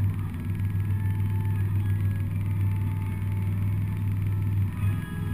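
Four-cylinder demolition derby car's engine running, heard from inside the cab as a steady low drone, with a brief dip in level near the end.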